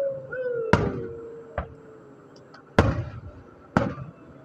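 Aerial fireworks shells bursting: four sharp bangs about a second apart, the first and third the loudest, each with a short rumbling tail.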